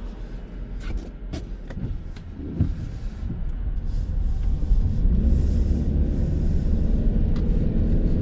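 Vehicle engine and tyre rumble heard from inside the cabin while driving, a few light clicks early on, growing louder about five seconds in.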